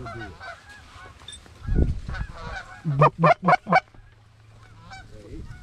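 Goose honks: four loud honks in quick succession about three seconds in, with fainter honking before them. A dull thump comes just before the honks.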